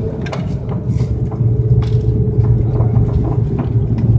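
Airliner cabin noise in an Airbus A330-200 on the ground before takeoff: a steady low hum of the engines and air conditioning, with a faint steady tone above it and a few light clicks and rattles.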